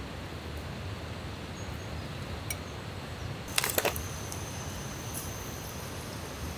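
Steady outdoor background noise, with one faint click about two and a half seconds in and a brief cluster of sharp clicks and rattles a little after three and a half seconds, like small hard objects being handled.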